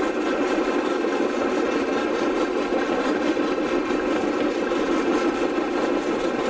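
Steady engine noise running evenly throughout, with no change in pitch or level.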